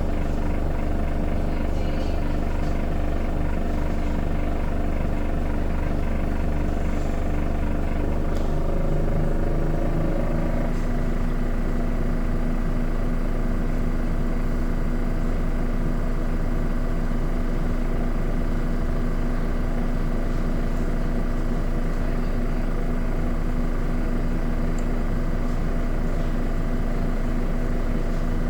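Miele washing machine on its spin cycle, the drum running as a steady hum; about nine seconds in the pitch shifts as the spin speed changes, then it settles into a new steady tone.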